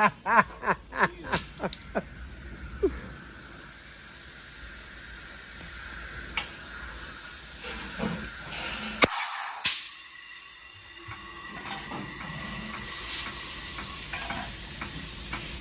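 Compressed air hissing steadily into a new ATV tire as it is seated and inflated on its rim. A sharp pop comes about nine seconds in, and then the hiss carries on more quietly.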